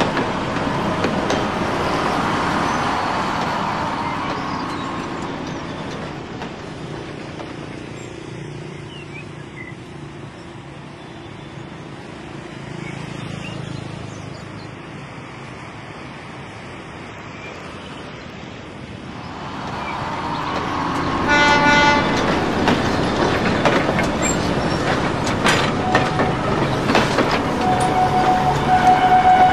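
Train running, fading to a low rumble and then building again as it approaches, with a short horn toot a little past two-thirds in and a longer steady horn note near the end.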